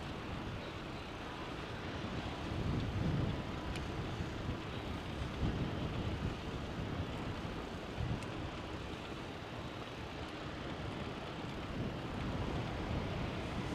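Steady wind and road noise of a moving bicycle: wind rushing over the camera's microphone with a low rumble, swelling slightly a few seconds in, and a couple of faint clicks.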